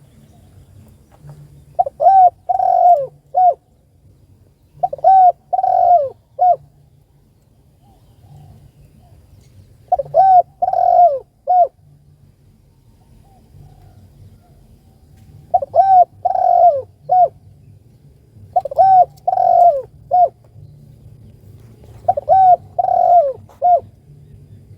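Spotted dove (tekukur) cooing: six phrases of about four notes each, a few seconds apart.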